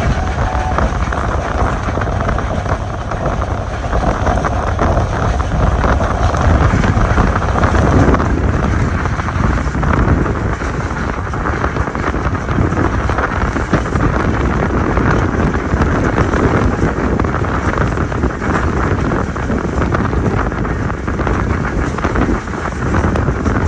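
Steady running noise of a moving passenger train heard from on board: wheels on the rails and air rushing past the microphone.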